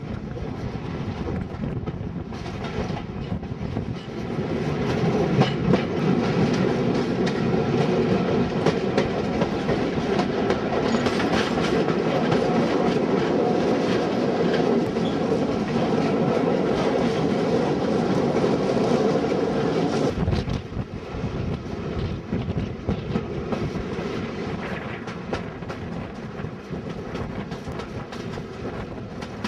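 Diesel-hauled passenger train running on the rails, heard from an open carriage window: steady wheel-and-rail noise with clickety-clack. It grows louder about four seconds in and eases off about twenty seconds in.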